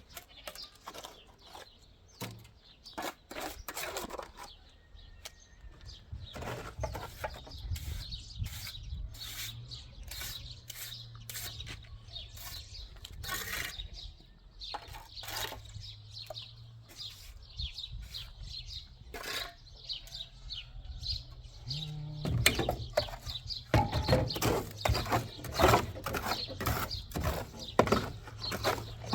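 Irregular scrapes and knocks of hand work on cement, over a low steady hum that sets in a few seconds in and grows louder near the end.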